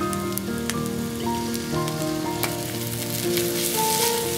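Rice sizzling as it stir-fries in a wok, with a few sharp clicks of the spatula against the pan. Background music with held notes plays throughout.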